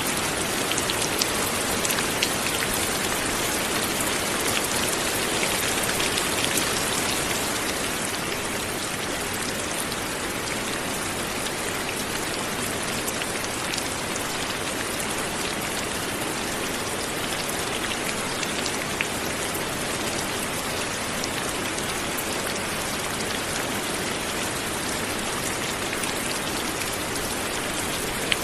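Light rain falling steadily, an even hiss of rain with scattered individual drops ticking on a surface; slightly softer after the first several seconds.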